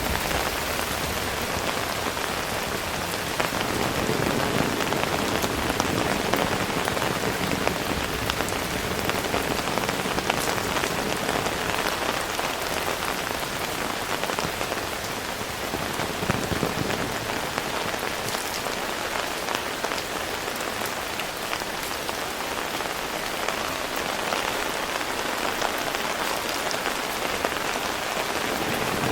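Heavy rain falling steadily, a dense even hiss of downpour with many individual drops ticking on nearby surfaces.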